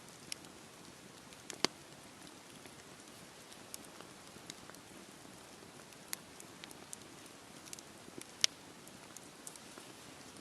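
Campfire burning in steady rain: an even hiss of rain with scattered sharp pops and crackles from the fire. Two pops stand out, one about a second and a half in and a louder one near the end.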